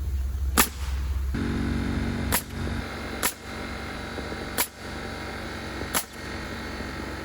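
Nails being driven into roof framing lumber: five sharp shots, about one to one and a half seconds apart, over a steady motor hum that starts about a second and a half in.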